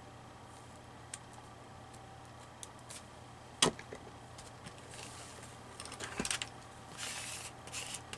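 Hands handling paper collage materials on a table: a few soft clicks, one sharp tap about three and a half seconds in, then paper rustling over the last few seconds.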